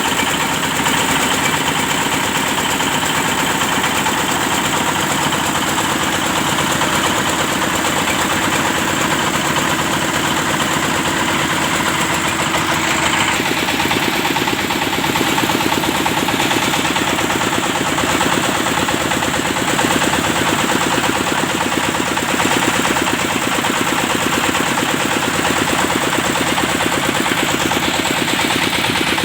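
Engine of a well-drilling machine running steadily under power, with a rapid, even pulsing. The sound shifts slightly about a third of the way through.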